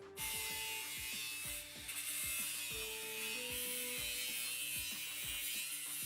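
A steady rasping mechanical noise from a workshop tool at work, starting just after the beginning, over background music with held notes.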